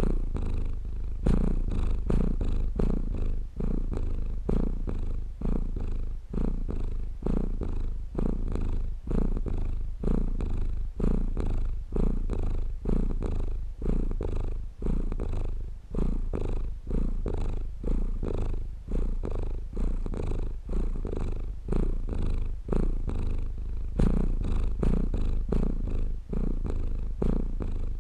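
Domestic cat purring close up, a low steady rumble that swells and eases with each breath, in and out about once a second.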